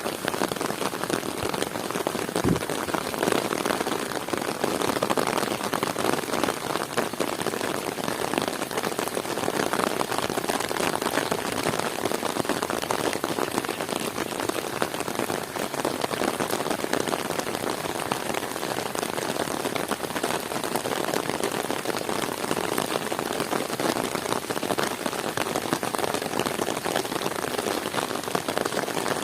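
Heavy rain falling steadily, a dense patter of drops, with one brief low thump about two and a half seconds in.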